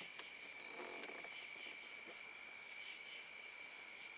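Night insects, crickets, chirring steadily at several high pitches, with a few faint small clicks.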